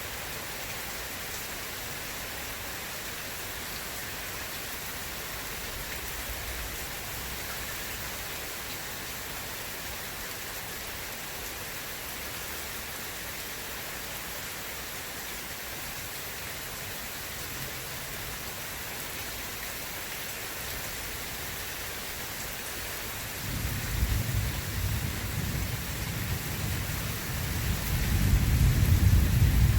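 Steady rain hissing, with thunder rumbling in from about three-quarters of the way through and swelling louder near the end.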